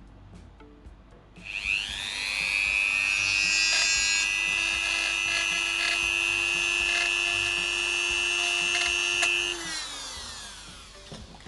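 Small high-speed rotary power tool (mini drill) spinning up with a rising whine about a second and a half in, running steadily at a high pitch for about eight seconds, then spinning down.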